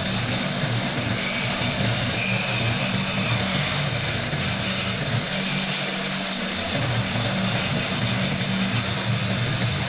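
Steady hiss of a sandblaster spraying compressed air and abrasive, over a constant low machine hum.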